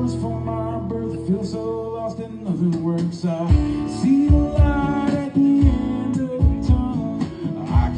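Live country song on stage, acoustic guitar over a full band, with a steady beat coming in about halfway.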